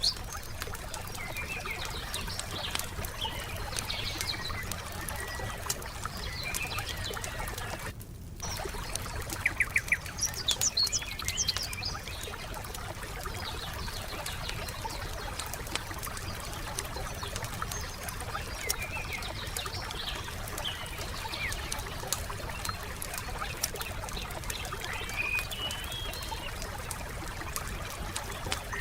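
Wood campfire crackling with frequent small pops while songbirds chirp and call over a steady low background. A brief dropout comes about eight seconds in, followed by a run of louder pops.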